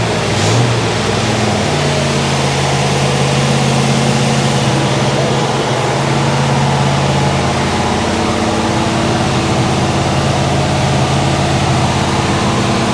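Freshly rebuilt 396 big-block Chevrolet V8 in a 1967 Chevelle SS running at a steady idle on its first fire-up after decades without a running engine.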